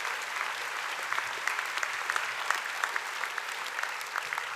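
An audience clapping hands in steady applause, many claps overlapping, easing off slightly near the end.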